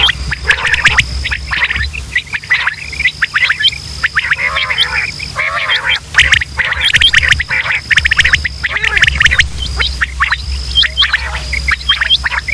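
Many quail calling at once, a dense tangle of short sharp chirps and trills, from a recording of quail calls played as a hunting lure. Beneath it runs a steady low hum, and a thin high tone comes and goes.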